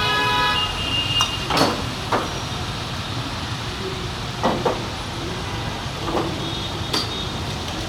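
Steady traffic noise with a short vehicle horn toot right at the start, then about half a dozen sharp knocks or clanks spread through the next few seconds.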